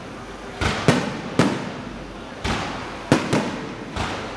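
Truck-mounted electronic fireworks going off: about seven sharp bangs at uneven intervals, each trailing off with a short echoing decay.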